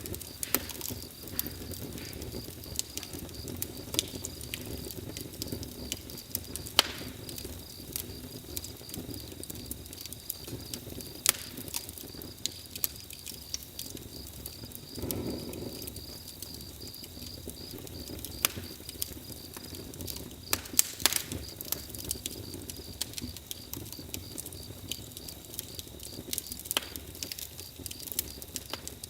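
Campfire crackling, with sharp irregular pops over a steady low rustle of burning wood.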